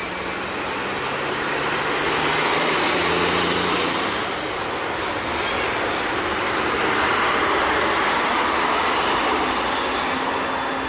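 Jet airliner engine noise: a steady rushing roar that swells about two seconds in, eases a little, and swells again about seven seconds in.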